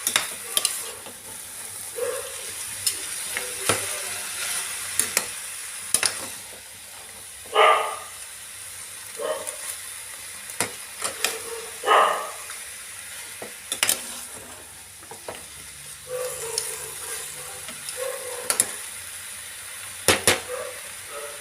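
Chicken, onion and tomato sizzling in a pan while a spoon stirs them, knocking and scraping against the pan at irregular intervals over a steady frying hiss.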